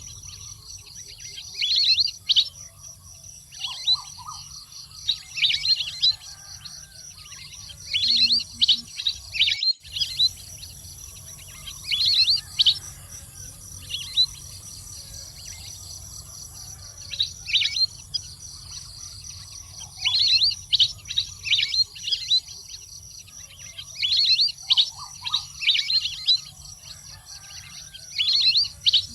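Waterfowl calling: clusters of quick, high, downward-sweeping chirping notes, repeated every couple of seconds.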